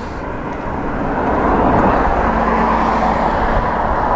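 Steady rushing wind and road noise on a bike-mounted camera riding at speed, growing louder over the first second or so and then holding. A faint steady hum joins about halfway through.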